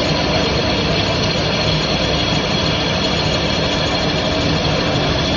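A machine running steadily: a continuous mechanical drone with a few faint steady tones in it.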